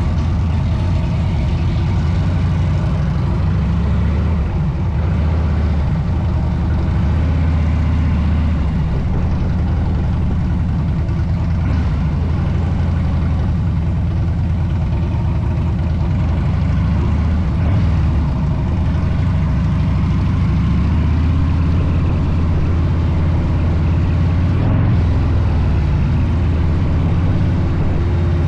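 Harley-Davidson V-twin motorcycle engine running steadily while cruising, its low beat wavering slightly in pitch over a steady rush of wind and road noise.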